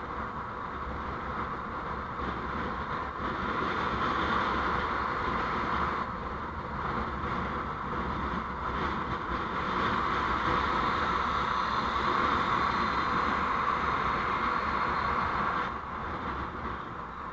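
Steady road noise from a moving vehicle, a continuous rush of tyre and travel noise that grows louder a few seconds in and eases off near the end.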